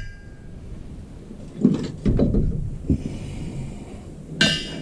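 Metal clunks and rattles from handling a welding cart loaded with gas cylinders, ending in a single ringing metallic clink about four and a half seconds in.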